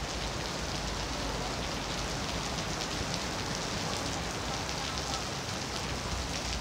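Heavy rain falling steadily on wet paving and trees, an even hiss with faint drop ticks.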